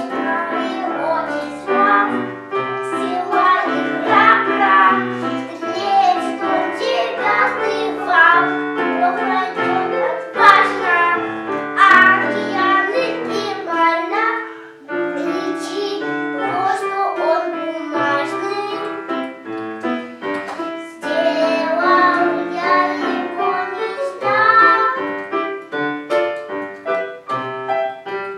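A child singing a song with piano accompaniment, with a short break in the singing about halfway through.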